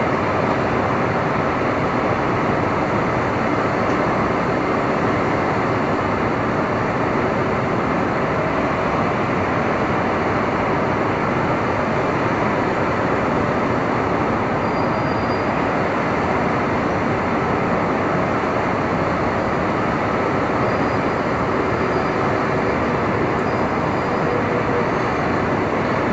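City street ambience on a stormy day: a steady, dense wash of traffic and weather noise with no single sound standing out.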